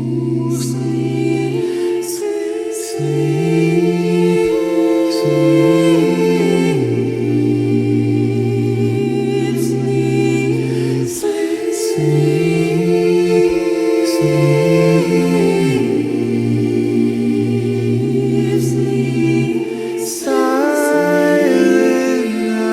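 Vocal group singing slow, sustained harmonies, a cappella.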